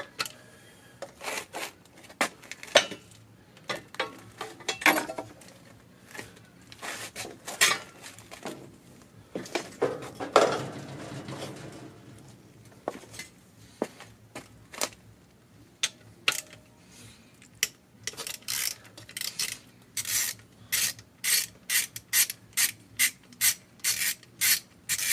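Hand socket ratchet working bolts on an engine block, likely the knock sensor bolts: scattered clicks and scraping of metal parts being handled, then from about 18 seconds in a steady run of ratchet clicks, about two a second.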